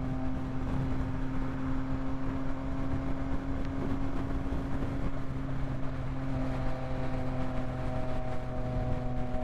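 Yamaha MT-09's inline three-cylinder engine running at a steady speed while cruising, its note holding one pitch over a constant rush of wind and road noise.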